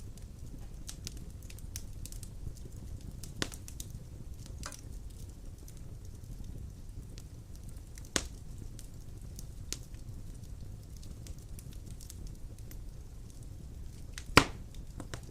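Wood fire burning in a stone fireplace: a steady low rumble of the flames with scattered crackles and sharp pops, the loudest pop near the end.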